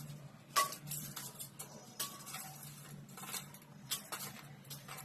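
Metal kitchen utensils clinking and knocking against cookware, about half a dozen sharp clinks, a few with a short ring, over a faint low hum.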